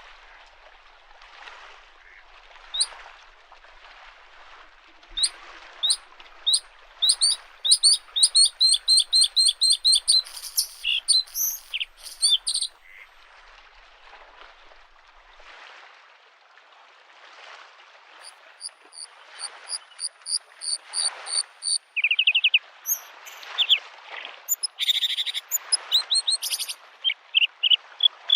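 Bluethroat singing in bouts of rapidly repeated clear notes and varied twittering phrases, over small lake waves lapping the shore in a soft, rhythmic wash. The song comes in two stretches: one roughly a quarter of the way in and one from a little past halfway on, with only the waves between them.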